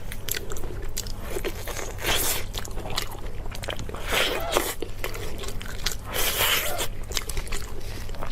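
Close-miked eating: a person biting and chewing food, with irregular crunches and clicks and louder bursts of mouth noise about two, four and six seconds in.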